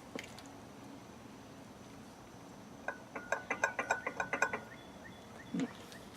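A quick run of about a dozen sharp mechanical clicks, ratchet-like, lasting under two seconds, followed a second later by a single dull thump.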